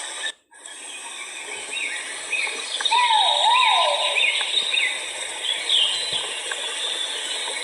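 Great argus pheasant calling: a pair of rising-and-falling whistled notes about three seconds in, over a steady high background hiss. The sound drops out briefly about half a second in.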